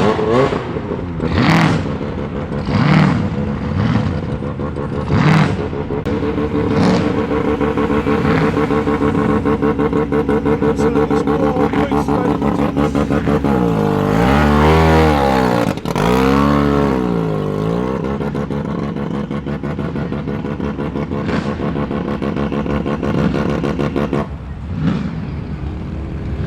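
Car engine running, blipped sharply several times, then revved up and back down twice in the middle before settling to a steady idle.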